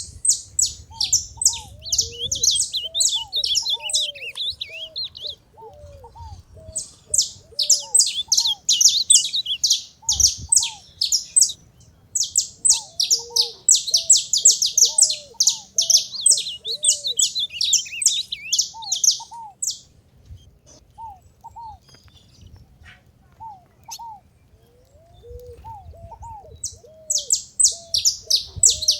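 Saffron finch singing: rapid, high, sharp notes in bouts a few seconds long, with a longer pause of several seconds before a last bout near the end. Lower, short arched calls repeat underneath.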